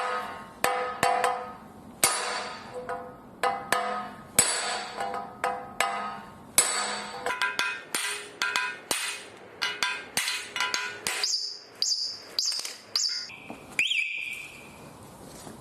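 Hammer blows on steel, driving the wheel hub out of a car's steering knuckle to get at a dry, worn wheel bearing. A couple of dozen sharp strikes, each ringing metallically, at an uneven pace that quickens in the middle, with a few high ringing notes near the end.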